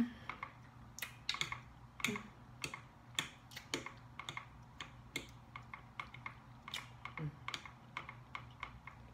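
Close-up eating sounds: irregular wet clicks and smacks of chewing green beans, with a fork picking at the plastic tray, a few clicks a second.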